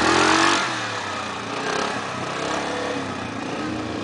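Yamaha Grizzly 700 ATV's single-cylinder engine revving hard under acceleration, backing off about half a second in and running on at lower, varying revs.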